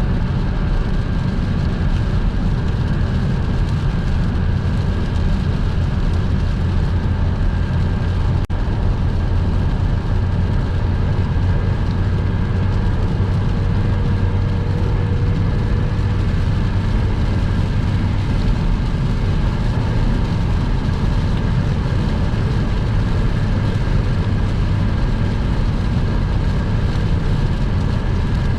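A car driving at motorway speed in the rain: a steady, heavy low rumble of tyres on the wet road and engine, with a faint steady whine above it. A single short click comes about eight seconds in.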